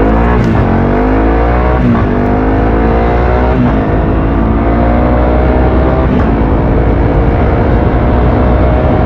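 Honda CRF300L's single-cylinder four-stroke engine accelerating hard under load. The revs climb, then drop at each of three upshifts, about 2, 4 and 6 seconds in, and climb more slowly in each higher gear.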